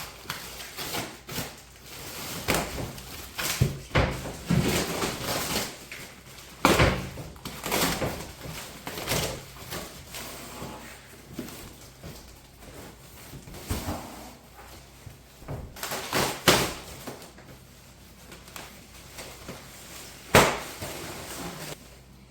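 A cardboard shipping box being opened and a wheelset unpacked: rustling and tearing of packaging, broken by irregular knocks and bumps, with the sharpest knocks about seven and twenty seconds in.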